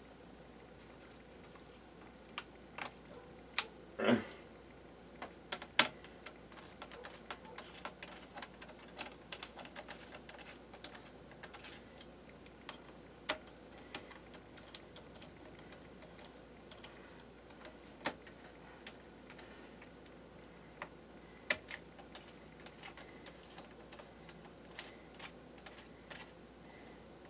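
Scattered light clicks and taps of a screwdriver and the plastic and metal parts of a laptop being handled during disassembly, with a louder knock about four seconds in.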